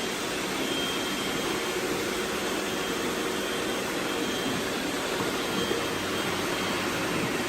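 Robot vacuum cleaners running, a steady whirring hiss of suction fans and brushes with a faint hum.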